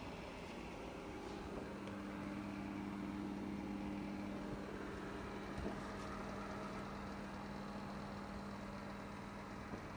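Electric fan heater running: a steady fan rush with a motor hum, a low steady tone coming in about a second and a half in and dropping away near the end.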